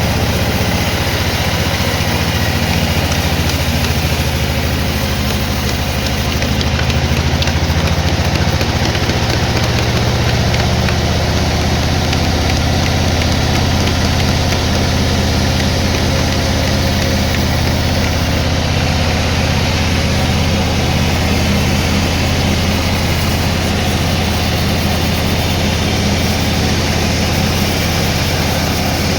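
Sawmill machinery running steadily, a continuous low engine drone that shifts slightly about six seconds in.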